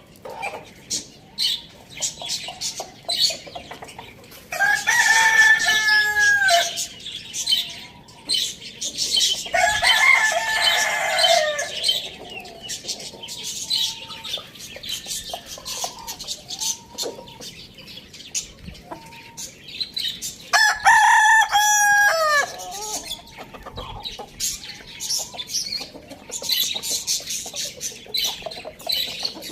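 A rooster crows three times, about five, ten and twenty-one seconds in, each crow about two seconds long. Between the crows, chickens cluck and there is frequent high-pitched chirping.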